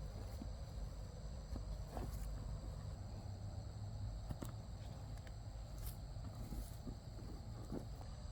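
Steady high-pitched insect chorus over a low rumble, with a scatter of short clicks and taps.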